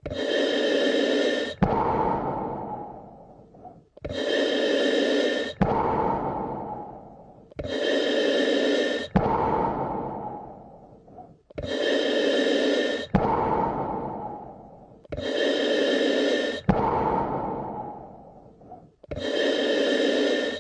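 A person breathing slowly and evenly, about one breath every four seconds: a short in-breath that starts and stops sharply, then a longer out-breath that fades away, six breaths in all.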